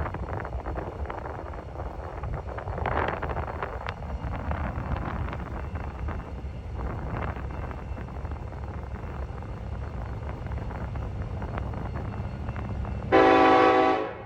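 Diesel locomotive idling with a steady low rumble and wind on the microphone, then a loud locomotive horn blast about a second long near the end.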